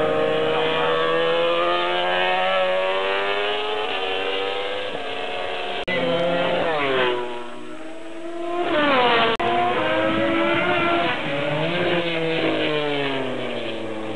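Racing motorcycle engines at high revs, their pitch rising and falling as they go through the gears. A bit over six seconds in, one drops sharply in pitch as it passes, and another climbs again.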